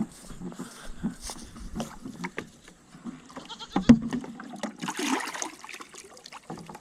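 A goat bleating about five seconds in, among scattered knocks and clatter, with one sharp knock just before it.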